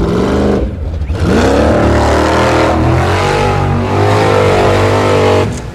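Formula Offroad buggy's engine revving hard under full throttle on a steep climb. The revs dip just under a second in, climb again and hold high for several seconds, then drop off near the end.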